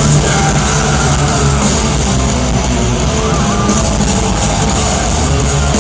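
Heavy metal band playing live at loud volume, with electric guitars.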